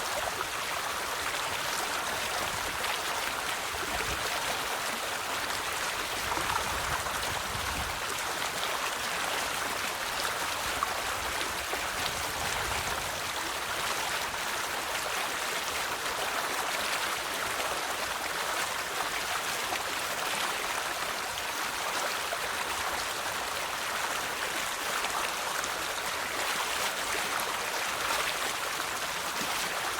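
River water flowing over rocks: a steady rushing and burbling that holds even throughout.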